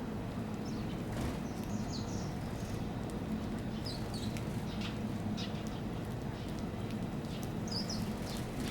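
Small birds chirping in short, scattered high calls, over a steady low hum.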